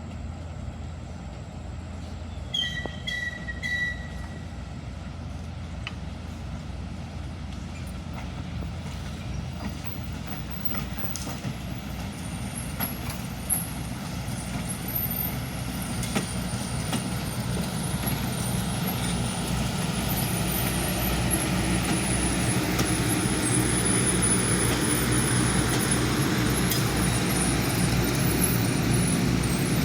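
Passenger train getting under way: a steady low running sound with a few short high squeals a few seconds in, then a gradual build in rumble and loudness as it picks up speed, with a thin high metallic squeal from about halfway.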